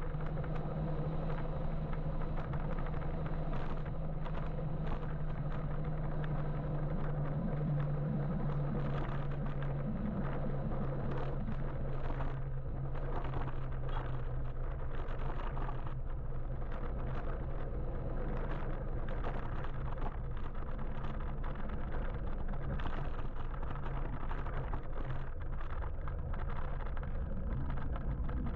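Steady road and wind noise from riding an electric motorbike through traffic, with a low steady hum underneath that shifts slightly about ten seconds in.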